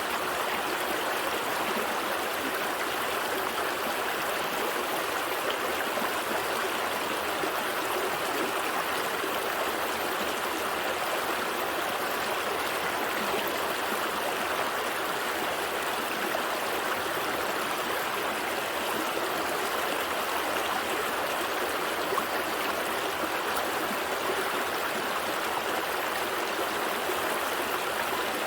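Small stream flowing steadily, a continuous gentle rush and trickle of water over stones.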